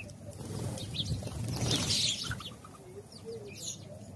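House sparrows chirping in short, scattered high notes, with a louder brief rush of noise about two seconds in.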